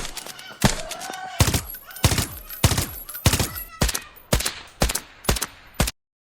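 Toy gun firing a steady string of gunshot sounds, about one every half second and some ten in all, cutting off suddenly near the end.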